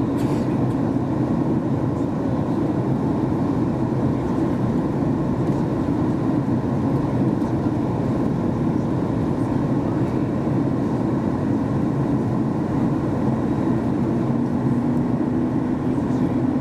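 Steady cabin drone of a Boeing 737 MAX 8 in flight, the engines and rushing air heard from inside the cabin. A low steady hum joins in near the end.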